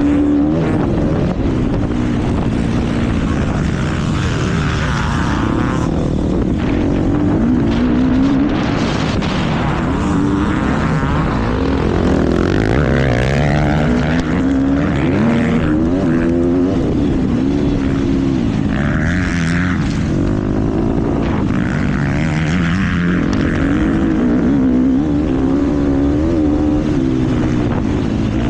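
KTM motocross bike's engine revving hard and easing off again and again as it is ridden around the track, its pitch climbing on the throttle and dropping on each shut-off.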